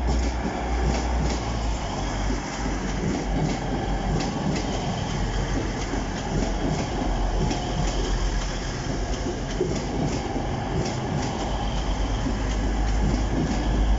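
Two coupled Class 185 diesel multiple units passing close by over a level crossing. The wheels clatter over the rail joints and crossing with a continuous rumble of the passing carriages.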